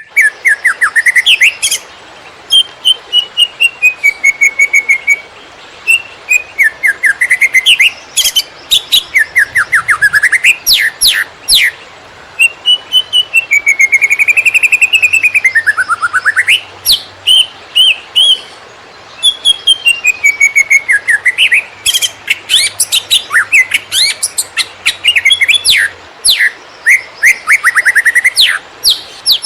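Green leafbird (cucak ijo) singing a fast, varied 'konslet' song: rapid runs of sweeping chirps mixed with gliding whistles, in loud phrases broken by short pauses.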